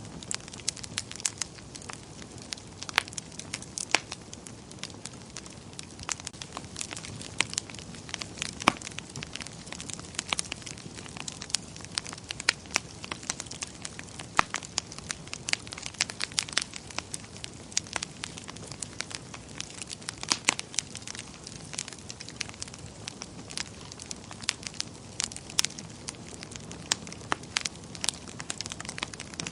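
Wood fire burning in a fireplace, crackling and popping with many irregular sharp snaps over a steady low rush of flame.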